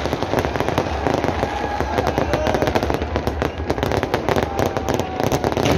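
Fireworks display going off in a dense, rapid run of bangs and crackles, with a large crowd's voices underneath.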